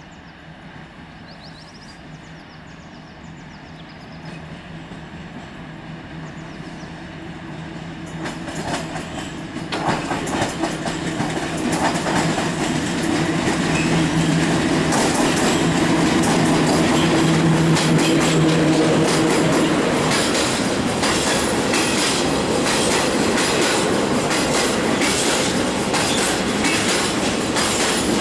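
PKP Cargo ET22 electric locomotive hauling a freight train, approaching and passing close by. The rumble grows steadily louder, with a steady hum from the locomotive as it goes by. After it passes, the freight wagons follow with a continuous rattle and the quick clicking of wheels over the rail joints.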